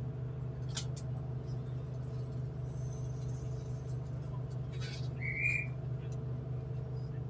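Steady low hum of a V/Line diesel train idling at a station platform, heard from inside the carriage. A few faint clicks, and a brief high whistle-like tone about five seconds in.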